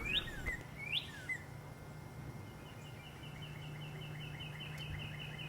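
Bird calls: two quick rising chirps, then a fast trill of repeated high notes, about six a second, over a faint steady low hum.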